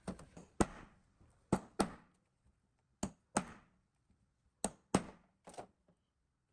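Sharp knocks from work on an old water pump's parts, about nine in all, mostly in pairs that repeat roughly every second and a half, each with a brief ring.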